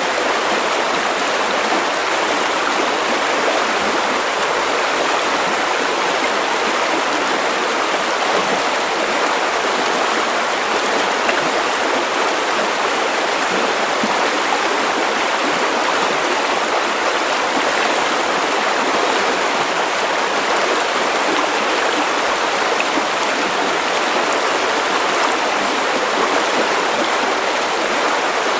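River water rushing and gurgling over stones, a steady, even flow.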